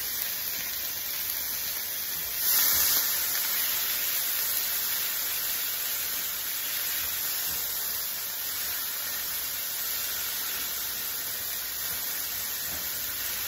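Chopped onion and tomato sizzling in hot oil in a frying pan as they are stirred: a steady hiss, with a louder spurt of hiss about two and a half seconds in.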